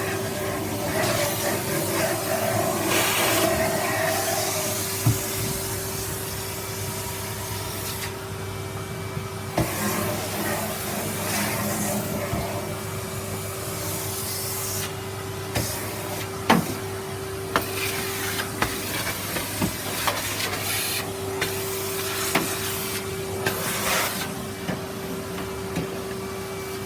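Bagged vacuum cleaner running, its motor holding a steady whine while the suction hiss rises and falls as the nozzle is worked over the floor. Scattered sharp clicks and knocks come through as debris is picked up and the nozzle bumps about.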